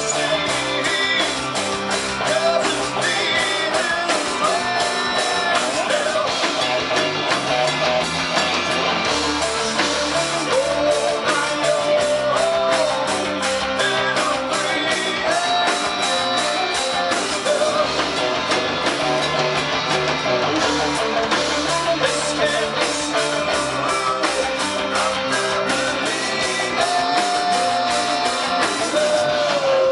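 A rock band playing live: a guitar-led melody over bass and a steady drum beat.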